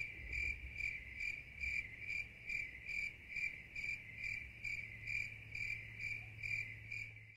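A cricket chirping: a high chirp repeated evenly about twice a second over a faint low hum. It starts and stops abruptly, as an added sound effect does.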